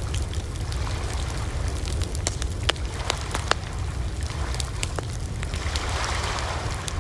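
Campfire burning: a steady low rumble of the flames with many sharp, irregular wood crackles and pops, and a soft rise in hissing near the end.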